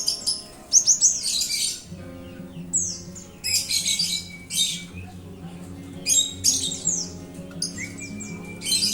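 Cinereous tit (gelatik batu) singing in four bursts of rapid, high chattering notes, each a second or two long. Steady low music notes run underneath.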